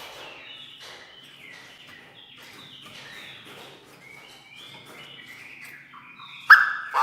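Chinese francolin calling: a run of repeated short chirping notes, then a much louder call about six and a half seconds in.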